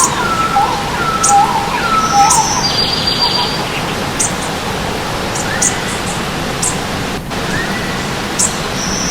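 Several songbirds singing over the steady rush of stream water. A run of clear, falling whistled notes comes in the first two seconds, a high buzzy trill about three seconds in, and short high chips throughout.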